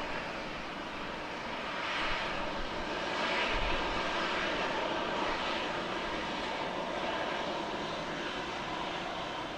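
Southwest Airlines Boeing 737 jet engines at takeoff power: a steady rushing jet noise that swells between about two and six seconds in.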